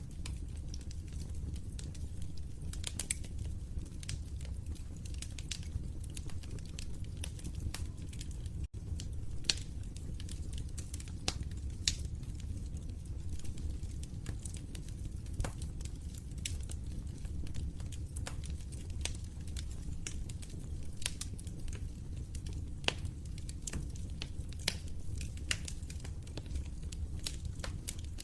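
Fire crackling: frequent irregular sharp pops and snaps over a low, steady rumble of flames.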